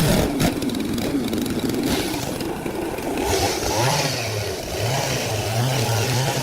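Engine-driven sawmill machinery running, with a few sharp clattering knocks right at the start and a wavering low hum later on.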